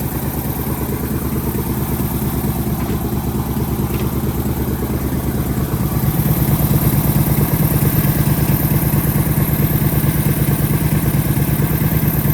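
23 hp Briggs & Stratton Vanguard V-twin engine running steadily through its extremely quiet mufflers, growing louder about six seconds in.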